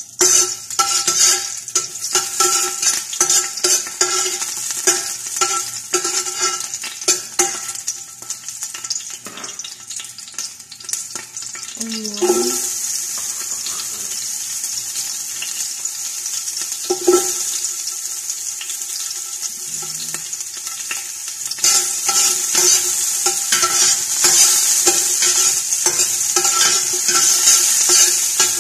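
Garlic sizzling in oil in a large stainless steel pot while a long metal spoon stirs it, knocking and scraping against the pot so that it rings briefly. At first the spoon knocks stand out over the sizzle. After a while the sizzle settles into a steady hiss, which grows louder later on.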